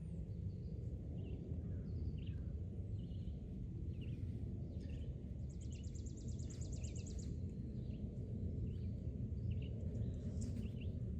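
Outdoor ambience of a steady low rumble with small birds chirping here and there, and one fast, high, rattling bird trill about five and a half seconds in, lasting about two seconds.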